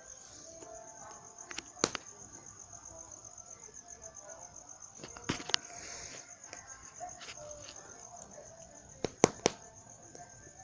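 Crickets chirping steadily in a fast pulsing trill, with a few sharp cracks on top: one about two seconds in, two close together about five seconds in, and three in quick succession near the end.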